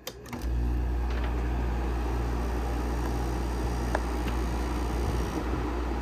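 A Carrier window air conditioner's compressor kicks on about half a second in and keeps running with a steady low hum and a rattling vibration.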